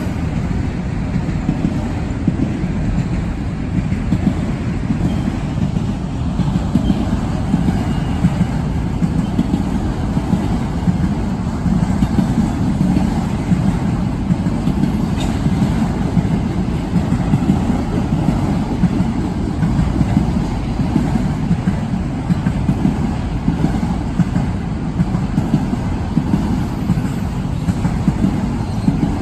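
Freight train of auto-rack cars rolling past: a steady low rumble.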